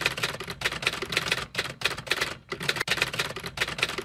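Typewriter typing sound effect: a rapid, uneven run of key strikes.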